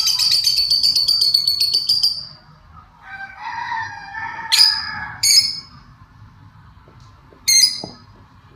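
Birds calling: a long, high, rapidly pulsed call for about two seconds, then a lower warbling call, then three short sharp squawks.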